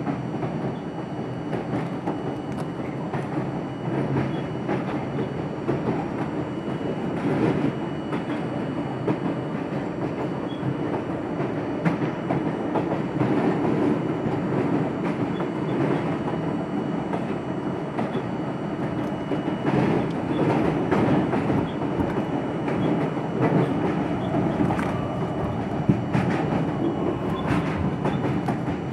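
R42 subway car running along the track: a steady rumble of wheels and running gear with the clickety-clack of rail joints, swelling a little now and then.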